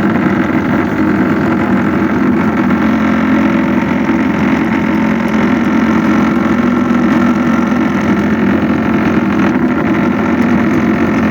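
A large engine running steadily at an even pitch, without revving or pauses.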